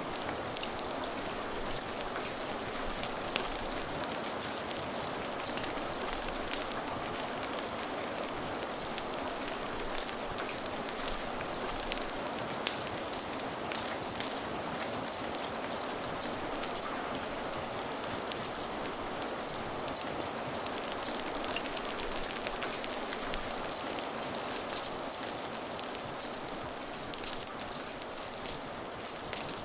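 Steady rain falling in a continuous even patter, with fine crackles of a wood fire mixed in.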